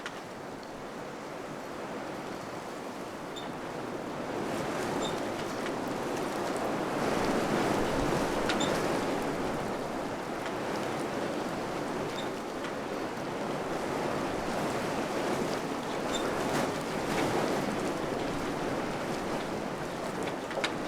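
Wind blowing in gusts, a steady rushing that swells a few seconds in and then surges and eases, with faint scattered ticks.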